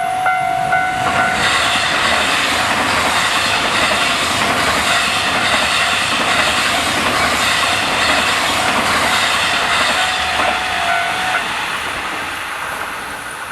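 Japanese level-crossing alarm ringing its repeated clanging tone as a Tokyo Metro 18000 series electric train runs through the crossing. The train's running noise comes in about a second in and covers the alarm. It fades near the end, and the alarm stops about eleven seconds in.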